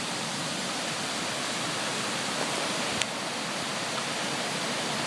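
Steady rush of a waterfall pouring into a creek. A single faint click comes about three seconds in.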